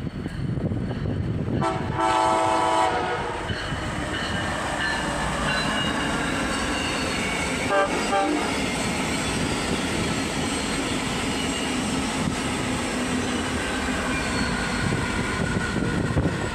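Amtrak passenger train passing: its horn sounds for about a second near the start, then the steady noise of the train rolling by, with a second short tone about halfway through.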